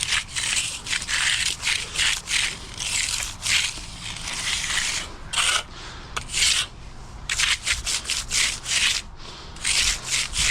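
Hand finishing tool scraped back and forth across freshly poured concrete in repeated short, uneven strokes, working and opening up the surface.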